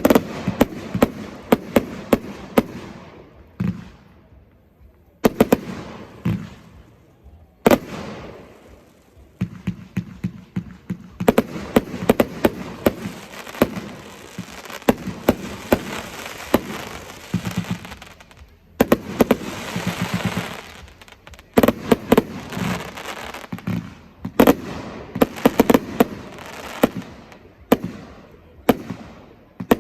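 Fireworks display: rapid volleys of shots and bursting bangs in quick clusters, with brief lulls a few times and a rushing hiss about two-thirds of the way through.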